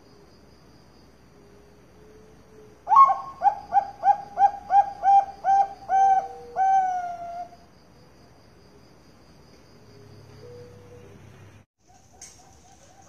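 Zebra dove (perkutut) cooing: a run of about ten quick, evenly spaced notes that ends in a longer drawn-out note. A second bout of cooing starts near the end.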